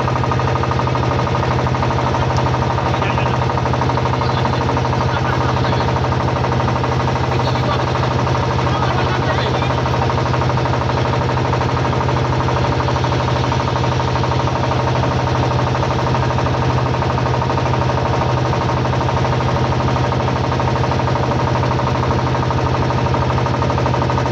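Motorboat engine running steadily with a fast, even knocking beat and a constant low hum.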